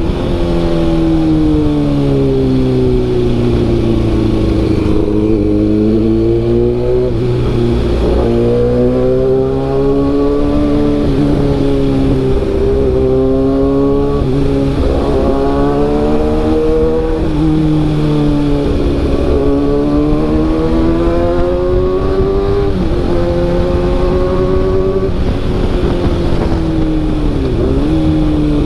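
Kawasaki ZX-6R inline-four with an SC-Project CRT carbon exhaust, ridden on the road: the engine note climbs and drops back again and again as the throttle is worked through the gears.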